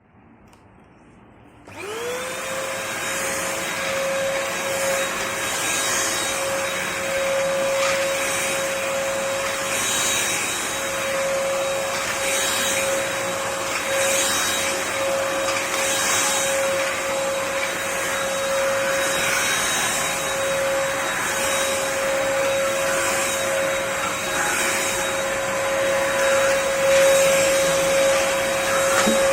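Eluxgo SVC1016 vacuum cleaner switching on about two seconds in, its motor spinning up quickly to a steady whine over the rush of air. A higher hiss swells and fades about every two seconds while it runs.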